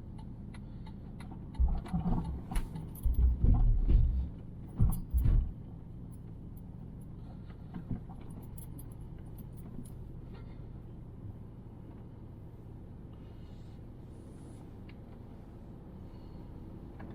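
Steady low drone of a car in motion, heard from inside the cabin, with a cluster of heavy low thumps and clicking rattles in the first few seconds.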